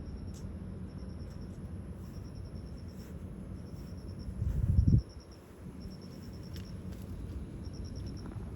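Crickets chirping in short trills of rapid pulses, about one a second, over a steady low rumble. A louder low rumble swells about four seconds in and cuts off suddenly near the middle.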